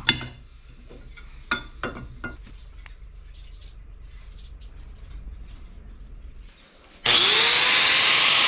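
A few sharp knocks of metal on metal over a low hum. Then, about seven seconds in, a power tool starts suddenly, its pitch rising as the motor spins up, and runs loudly.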